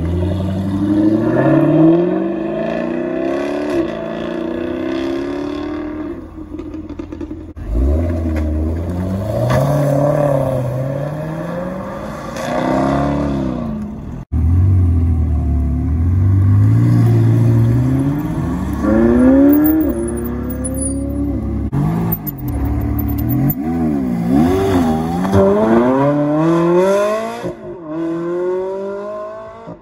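Cars pulling away one after another, each engine revving up with a rising note that drops back at the gear changes. The first is a Jaguar F-Type Project 7's supercharged V8.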